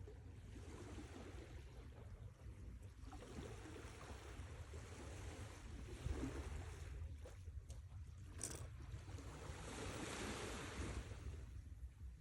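Sea waves washing onto the shore: a soft rush that swells and fades, loudest about ten seconds in, over a steady low rumble.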